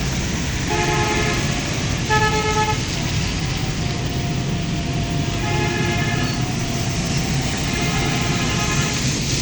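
Vehicle horns honking in four short blasts over steady road traffic and engine noise.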